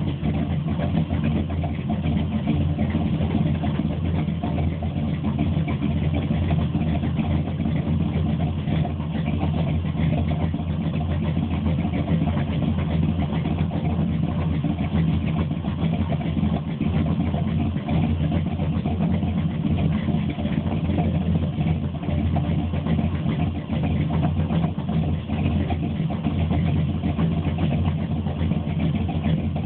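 ZZ502 big-block Chevy V8 crate engine with Powerjection III throttle-body fuel injection, idling steadily at an even speed.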